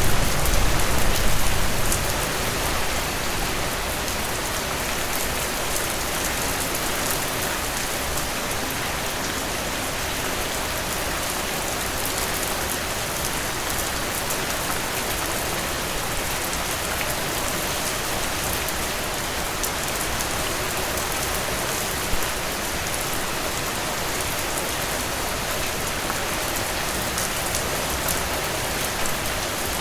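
Heavy rain pouring steadily, a dense hiss of many drops hitting surfaces. A deep low rumble in the first couple of seconds dies away, leaving the even downpour.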